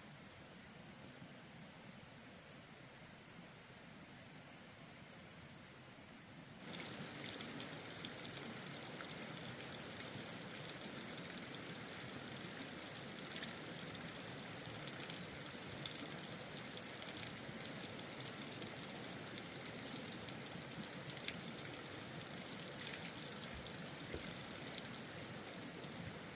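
Faint, steady background ambience, with a thin high whine for the first several seconds. About a third of the way in it changes abruptly to a somewhat louder even hiss with scattered faint ticks.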